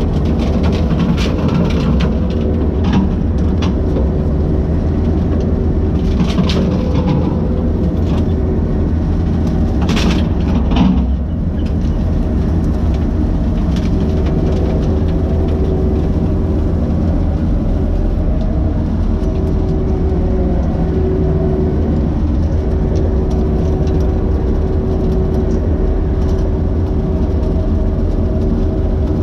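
Skid steer engine running steadily under load while driving a bush hog mower, with sharp cracks now and then as small trees and brush are cut.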